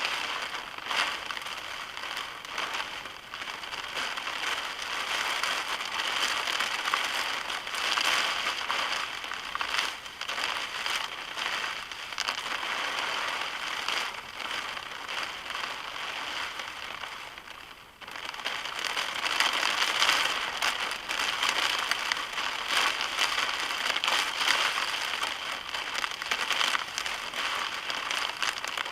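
Heavy storm rain hitting a car's roof and windscreen, a dense crackling patter that dips briefly about eighteen seconds in and then comes back as hard.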